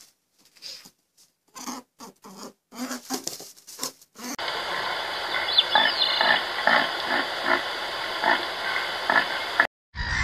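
Short low grunting calls in quick runs from an animal. After an abrupt cut, red deer call over and over, about one or two calls a second, with one brief high squeal, over a steady outdoor hiss.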